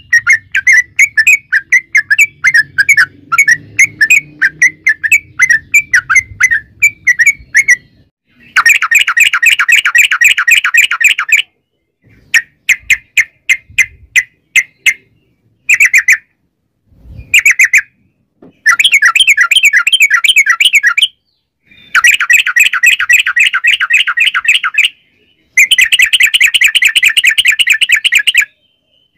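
Yellow-vented bulbul (trucukan) chattering: long, very fast runs of bright, sharp notes, each lasting a few seconds, broken by slower strings of separate notes and short silences.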